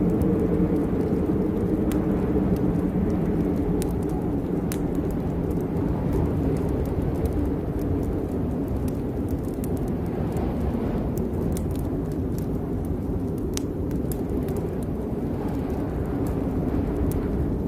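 Steady rain with a deep, even rumble underneath and scattered sharp ticks of drops.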